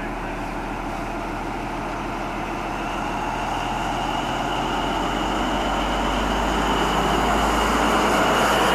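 InterCity 125 High Speed Train running, growing steadily louder over the few seconds, with a steady high-pitched whine over a low rumble.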